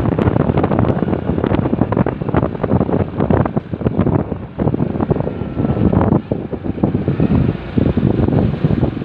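Wind buffeting the microphone on a moving motorcycle, a loud, constantly fluttering rush that covers the sound of the ride.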